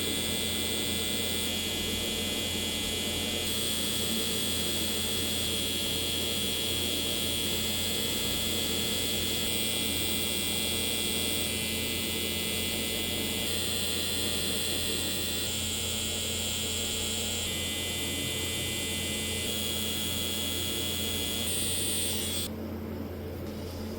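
Electric tattoo machine buzzing steadily with a low hum. Its tone shifts slightly every few seconds, and the higher part drops away near the end.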